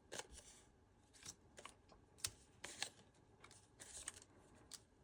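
Faint rustling of paper die-cut pieces being handled and leafed through: a scatter of short swishes and light clicks of card on card.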